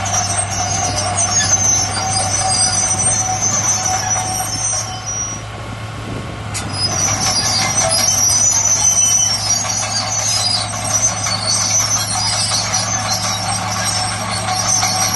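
Bulldozer at work: a steady diesel engine drone with high metallic squealing over it, which fades for a moment about five seconds in and then returns.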